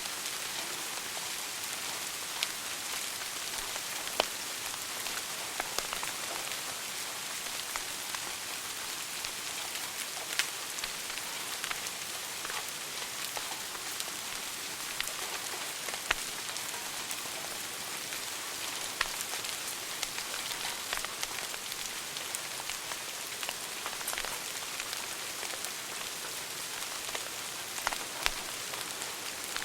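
Wood fire burning in a fireplace: a steady crackling hiss with scattered sharp pops, a few of them louder.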